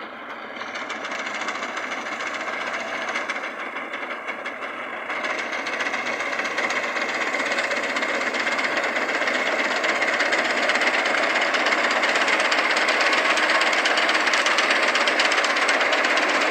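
Tractor diesel engine and machinery running with a fast, even knocking clatter, growing steadily louder over the first ten seconds or so and then holding steady.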